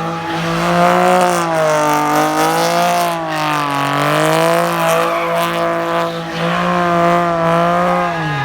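Car engine held at high revs for several seconds, its pitch wavering up and down, typical of a car doing a burnout or donuts; the revs drop off sharply right at the end.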